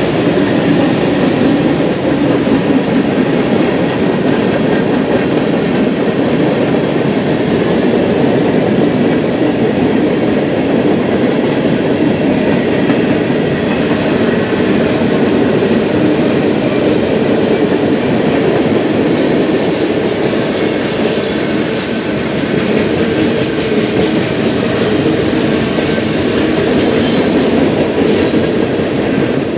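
A passing train's cars rolling steadily by on the rails, a continuous loud rolling noise of steel wheels on track. Brief high wheel squeals come in about two-thirds of the way through and again a few seconds later.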